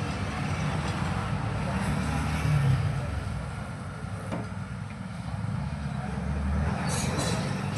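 Steady low rumble of road traffic, with a few faint clicks near the end.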